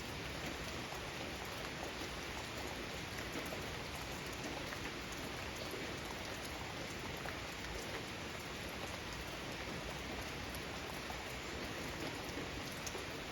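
Steady rain falling in a garden, an even hiss of rain with many small drop patters on surfaces.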